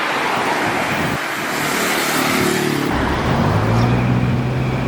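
Car engine running: a loud rushing noise at first, then about three seconds in a steady low engine note comes in and holds.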